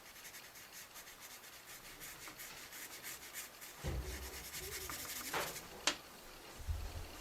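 Dry paintbrush brushed rapidly back and forth over paper, blending the graphite shading. The strokes are quick and scratchy, with a few soft bumps against the paper about halfway through.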